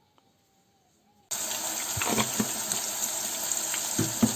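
Onion, ginger and garlic paste sizzling in hot oil and ghee in a wok: a steady hiss that starts abruptly about a second in, with a few low knocks.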